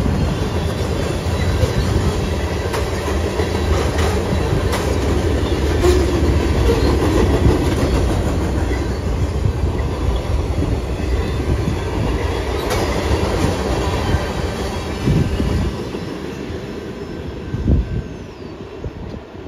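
Freight train cars rolling past close by: a steady rumble of steel wheels on rail with occasional sharp clicks. The rumble eases off near the end as the train moves away, with a single knock shortly before the end.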